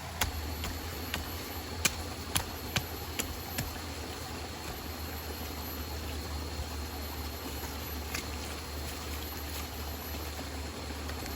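Steady rushing of a forest stream, with a series of sharp clicks or knocks in the first few seconds and one more later on.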